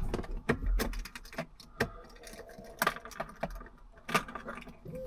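Keys jangling with a string of short, sharp clicks and knocks, like a car key being handled at the ignition.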